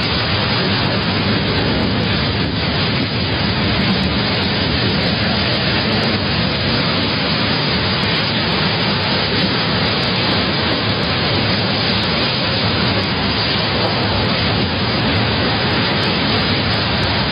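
Strong storm wind with rain: a loud, steady rush of noise that does not let up.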